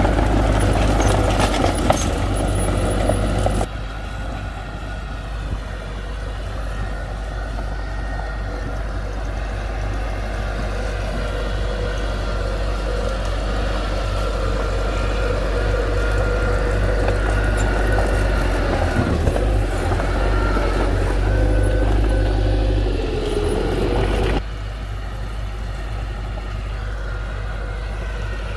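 Heavy construction machinery running, with a steady engine hum and low rumble. The sound changes abruptly twice, about four seconds in and again near the end.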